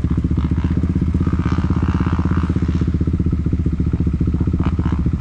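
Engine idling steadily with a fast, even pulse.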